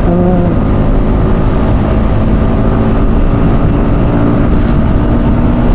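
Motorcycle engine running at a steady, unchanging pitch while riding, under heavy wind rush on the rider's microphone.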